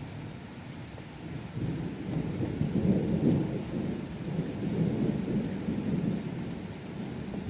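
Thunder rumbling over steady rain. The rumble builds about a second and a half in, is loudest around three seconds, then slowly fades.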